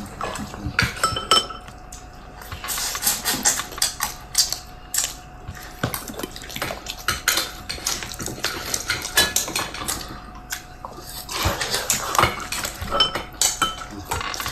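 Spoons and bowls clinking and tapping, many short scattered clinks of tableware being handled while eating.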